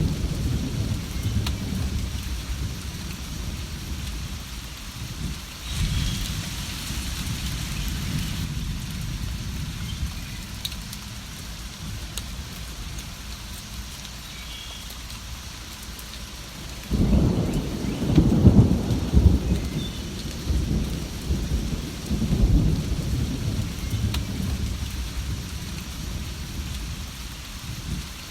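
Steady rain with rolling thunder. A loud peal of thunder breaks in suddenly about two-thirds of the way through and rumbles on for several seconds, fading into smaller rolls.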